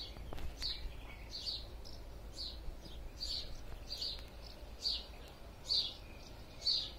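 A bird chirping the same short, downward-sliding note over and over at a steady pace, a little more than once a second, over a low steady hum.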